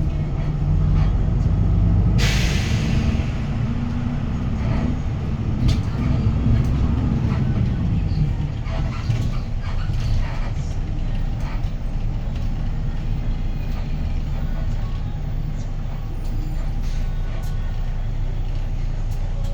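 Hyundai Green City bus's D6GB six-cylinder diesel heard from inside the cabin, pulling under load as the bus drives on. A short sharp air hiss comes about two seconds in. The engine note climbs and then falls away at about eight seconds, leaving a steadier, lighter running sound.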